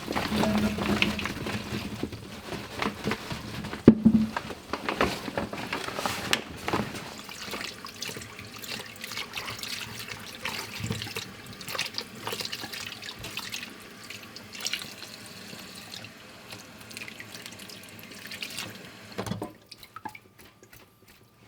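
Water running from a tap into a kitchen sink, with irregular splashes as things are rinsed by hand under it; the running water stops about 19 seconds in.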